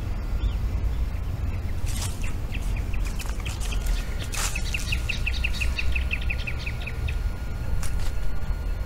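A bird singing a long run of quick, repeated high chirps, about six a second at its fastest, over a steady low rumble. Two sharp clicks stand out, one mid-way and one near the end.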